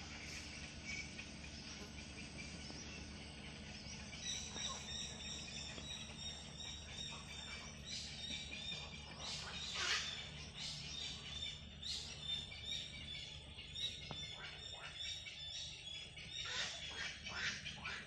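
Many birds calling and chirping, the calls growing busier from about four seconds in, with a few louder sharp calls standing out; a steady low hum runs underneath.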